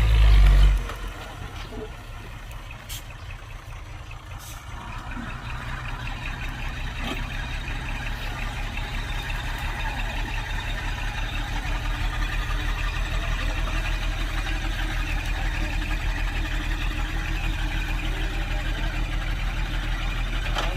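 Heavy diesel engine of earthmoving machinery running with an even pulse. It grows louder over the first dozen seconds, then holds steady. A loud low burst comes right at the start.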